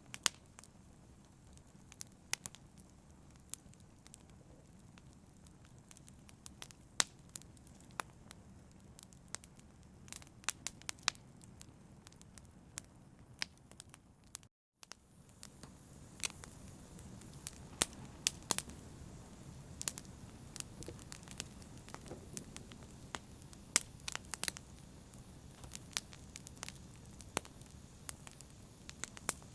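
Wood fire crackling, with irregular sharp pops and snaps over a soft steady hiss. The sound drops out for a split second about halfway through, then carries on slightly fuller.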